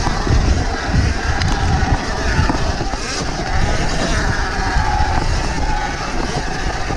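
Sur-Ron Ultra Bee electric dirt bike being ridden over rough single track: heavy wind buffeting and rumble on the body-mounted microphone, with a faint whine that rises and falls with the throttle.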